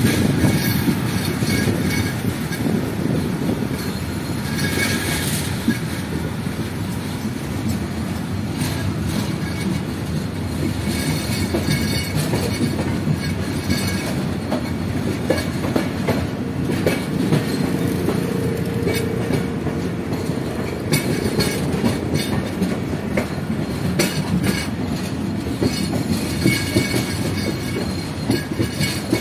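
A moving train heard from on board: a steady rumble of wheels on rail with scattered clicks from the rail joints. There are brief thin wheel squeals about five seconds in and again near the end.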